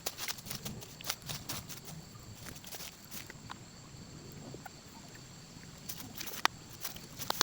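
Irregular small clicks and crackles, with a few louder ones near the end, over two faint steady high tones.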